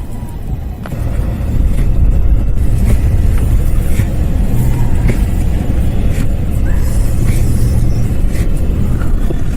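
Car driving on snowy roads: a steady low rumble of engine and tyres that grows louder about a second in, with a few faint clicks.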